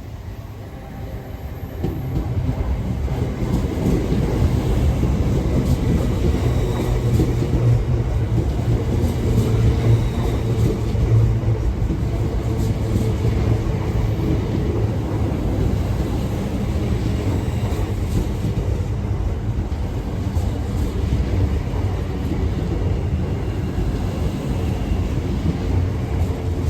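A train moving at the station platform: a loud, low rumble that swells about two seconds in and then holds steady.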